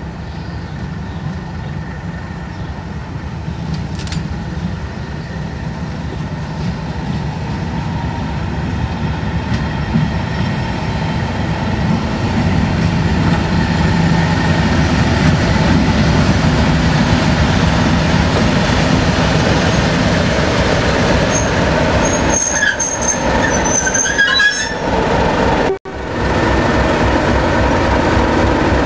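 Diesel locomotive and train coming closer, the engine's low running sound growing louder over the first half and then holding steady. Wheels squeal briefly a little over 20 s in, and the sound cuts out for an instant soon after.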